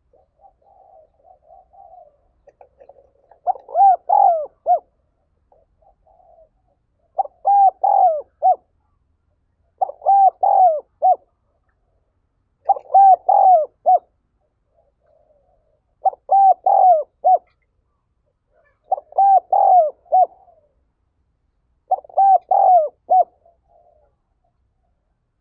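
Spotted dove giving its insistent 'gáy thúc' cooing call: seven loud phrases of a few short coos, about one every three seconds, with soft low cooing between them. Keepers play this call to stir their own doves into calling.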